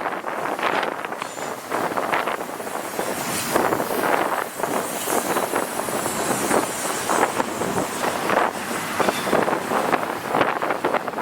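Long intermodal freight train rolling past, its wheels and cars clattering steadily on the rails, with wind buffeting the microphone.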